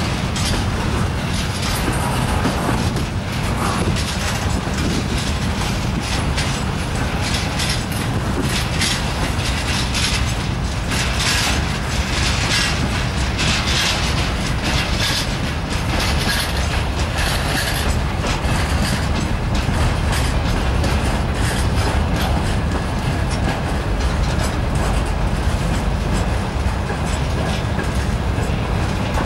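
Freight wagons, timber-loaded flatcars and then open gondola cars, rolling past close by: a steady low rumble of wheels on the rails with rattling clatter over it, loudest in the middle stretch.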